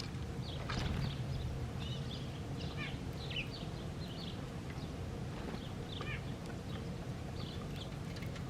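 Small songbirds chirping and twittering in many short, high calls, over a steady low rumble.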